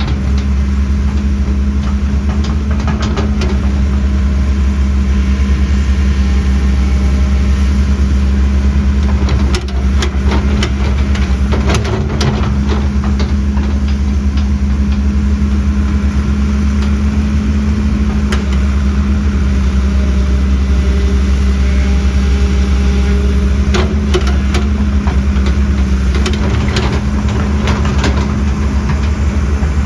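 Diesel engine of heavy earthmoving machinery running steadily, with a few scattered knocks and clanks.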